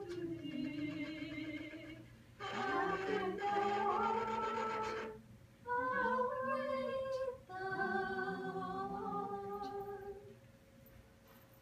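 Unaccompanied singing of a slow song in long held notes, in four phrases with short breaths between them, ending a little before the end.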